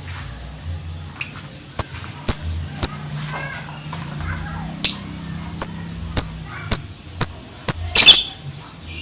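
Lovebird giving ngetik: a run of about ten short, sharp, high chirps, roughly one every half second, ending in a longer rapid burst near the end.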